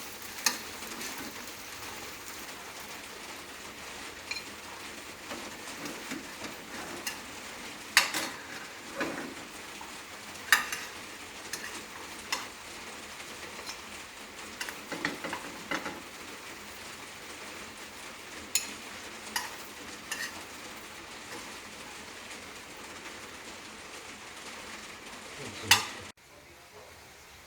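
Bread sizzling in a frying pan, with a steady hiss and scattered sharp clinks of a utensil against the pan. One loud clink comes near the end, then the sound cuts off abruptly.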